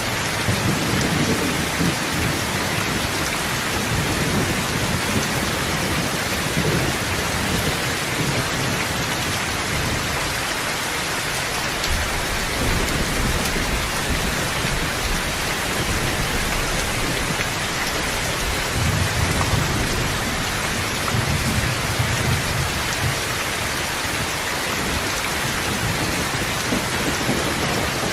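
Steady rain falling continuously, with low rolls of thunder swelling near the start and again about two-thirds of the way through.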